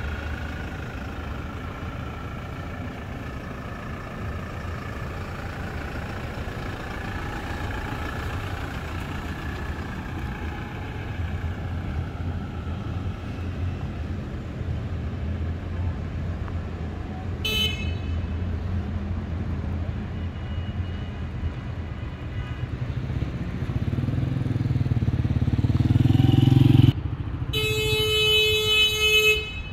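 Toyota Fortuner SUV's engine running steadily as the car drives off, with a short horn toot midway. Near the end a louder low rumble builds and cuts off suddenly, then a car horn sounds steadily for about two seconds.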